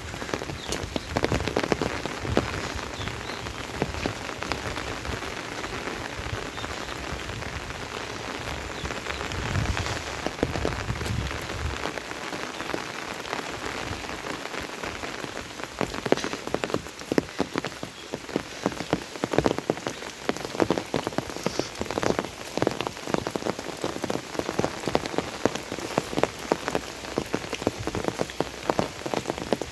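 Steady monsoon rain falling, an even hiss thick with the patter of individual drops. The drop hits grow sharper and louder from about halfway through.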